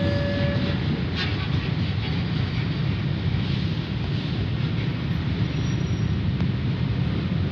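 A train passing the level crossing: a steady, loud rumble of wheels on the rails with a few clacks about a second in. The crossing's warning tone stops just under a second in.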